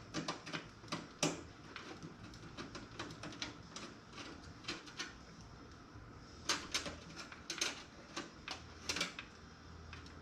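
Irregular sharp clicks and taps of small computer parts and sheet metal being handled while the toaster oven PC is put together, louder in clusters about six and a half, seven and a half and nine seconds in.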